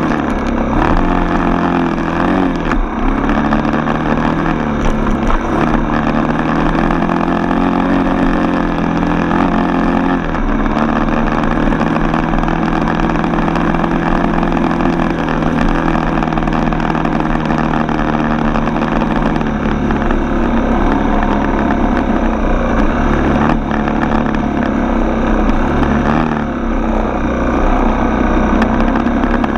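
Four-stroke single-cylinder dirt bike engine running as the bike is ridden, its pitch rising and falling as the throttle opens and closes and the gears change.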